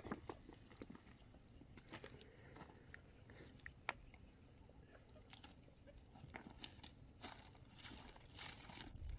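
Near silence with faint, scattered clicks and soft crunches.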